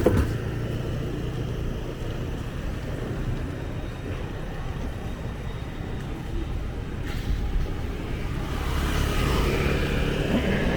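Street traffic: motorbike and car engines running past, a steady low rumble, with one engine growing louder and passing near the end.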